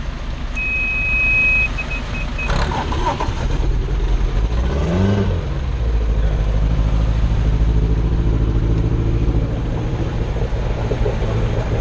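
A boat engine idling with a low rumble, revving up and back down about five seconds in, then running steadily. A short, high, steady beep sounds in the first two seconds.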